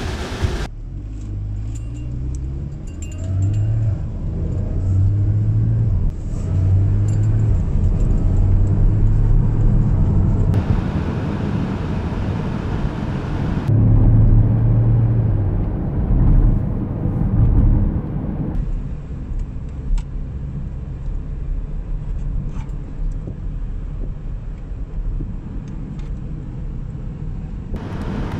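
Porsche sports car's engine running, heard from inside the cabin. Its low hum shifts up and down in pitch and loudness several times, louder in the first half, with a few abrupt cuts.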